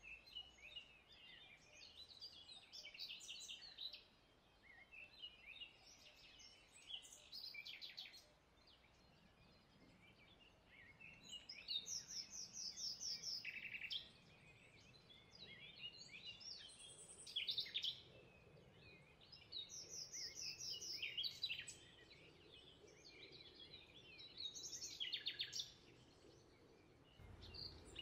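Faint birdsong: several small birds chirping, with fast trills now and then, over a quiet low background hum.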